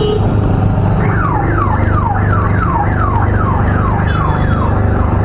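Electronic siren-like alarm starting about a second in, repeating a quick falling whoop about three times a second, over a steady low hum.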